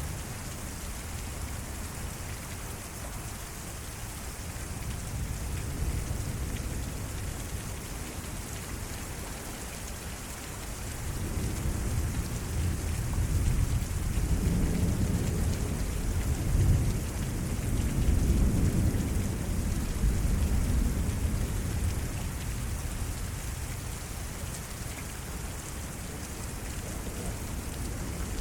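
Steady rain falling in a thunderstorm. About eleven seconds in, a long low rumble of thunder builds, rolls for roughly ten seconds, then fades back under the rain.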